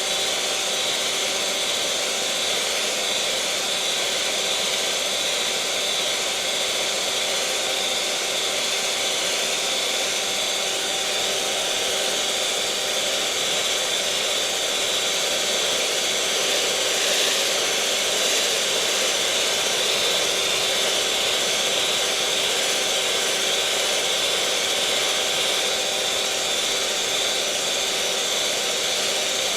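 Electric mixer motor running steadily at one speed: a continuous whirring with a steady hum and a faint whine held at one pitch.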